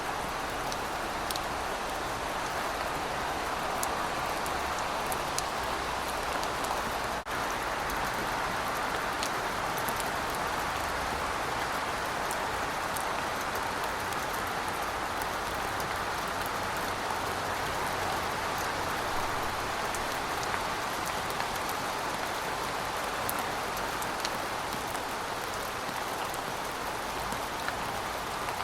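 Steady rain falling on pavement, a dense even hiss with fine patters of single drops. There is a momentary dip about seven seconds in.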